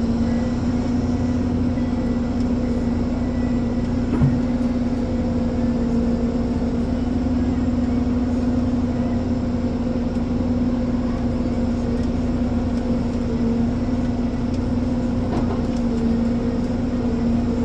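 Ponsse Elephant forwarder's diesel engine running steadily with a constant hum, with a single knock about four seconds in.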